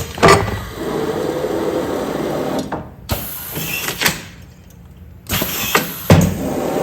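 Commercial food-container sealing machine working through its sealing cycles. Sharp clunks near the start, in the middle and near the end, with a steady mechanical running noise between them and short hisses.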